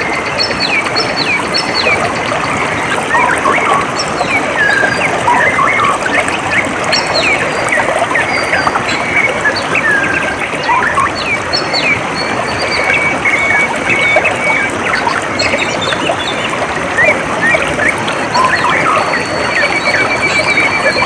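Steady flowing water with many small birds chirping over it in short, quick calls, and a few brief trills.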